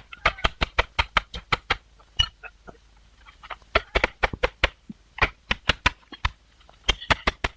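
Quick runs of sharp knocks, about five a second, in several bursts with short pauses between them.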